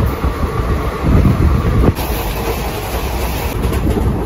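Falaknuma Express passenger train running on the rails, heard from its open coach door: a steady rumble of wheels on track. The sound changes abruptly about two seconds in.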